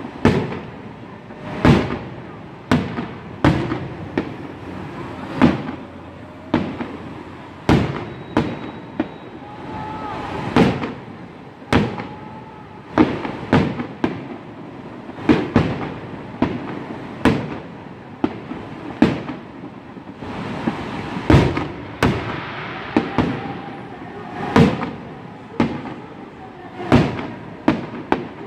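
Aerial firework shells bursting one after another in a display, a sharp bang roughly every second.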